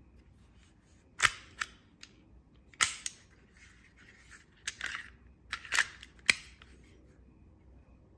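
A series of about nine sharp clicks, several coming in quick pairs, with short pauses between them.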